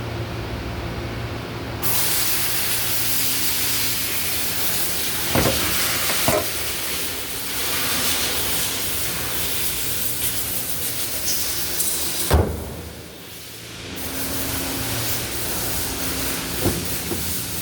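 Mitsubishi 4A92 1.6-litre four-cylinder engine running steadily at idle, under a loud steady hiss that starts about two seconds in and cuts out briefly about two-thirds of the way through. A few sharp knocks sound over it.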